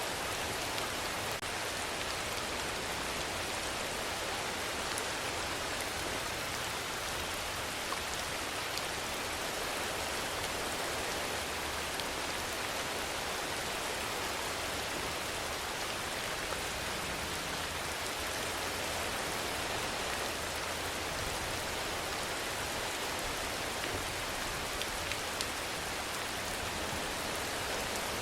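Steady rainfall: an even wash of rain with a few faint drop ticks now and then.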